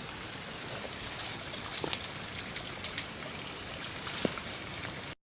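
Crackling and snapping of grass and brush as someone climbs through it, over a steady hiss of a small stream running. The sound cuts off abruptly near the end.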